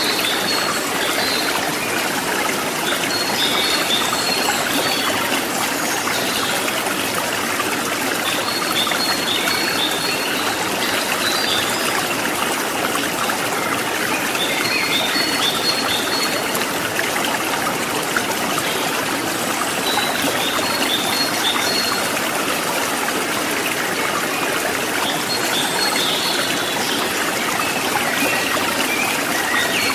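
Stream water trickling and splashing steadily, with groups of short high chirps recurring every five or six seconds.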